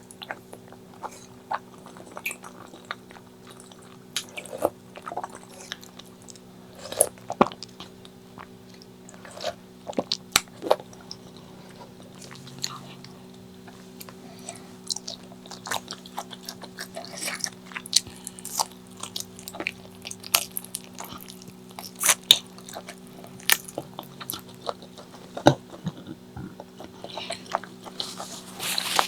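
A person chewing and biting food close to the microphone: irregular wet smacks and crunchy clicks, over a faint steady hum.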